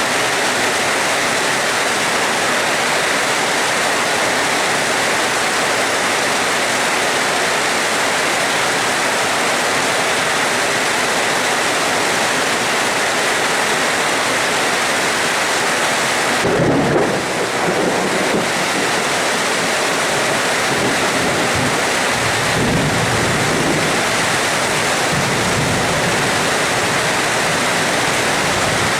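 Steady heavy rain, with thunder breaking in a little past halfway and rumbling on in low rolls.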